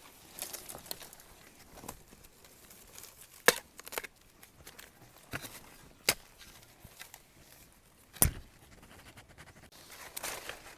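Digging and prying a young bamboo shoot out of the soil by hand: scattered sharp knocks of the tool striking earth and roots, about three loud ones, among the crackle and rustle of soil and dry leaves.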